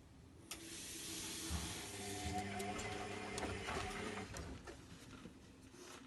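Zanussi Lindo 100 washing machine running: a rushing hiss comes in suddenly about half a second in and dies away near the end, over a steady low hum with a few soft knocks.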